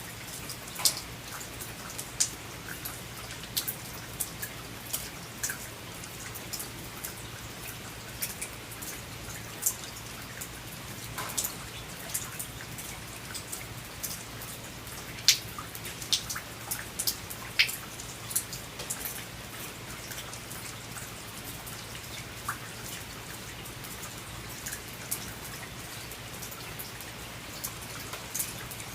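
Rain falling on a veranda: a steady hiss of rain with many irregular sharp drops striking close by, a few of them much louder than the rest.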